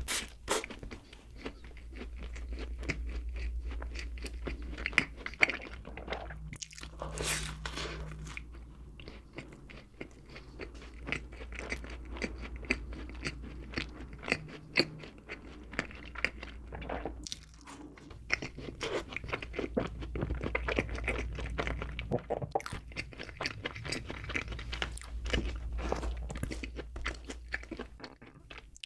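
Close-miked eating of donuts: repeated biting and chewing with many crisp crunches, over a steady low hum.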